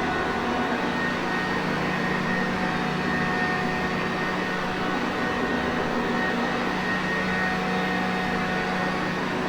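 Sanitaire Perfect upright vacuum cleaner running steadily: a constant motor hum with a faint whine over a rush of airflow noise, with no change in speed.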